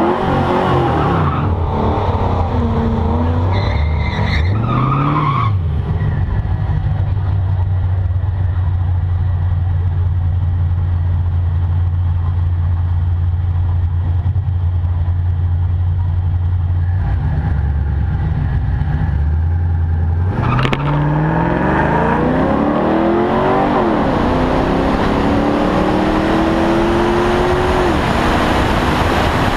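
Pontiac WS6 Trans Am's LS1 V8 idling at the starting line, with short throttle blips near the start and about five seconds in. About twenty seconds in it launches at full throttle, revving up through a gear change about three seconds later, with wind rushing over the car-mounted camera.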